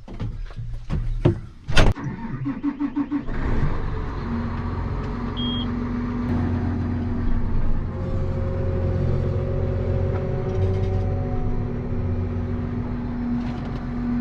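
A door clicks and shuts with a knock, then a diesel engine cranks briefly, catches about three seconds in, and settles into a steady idle.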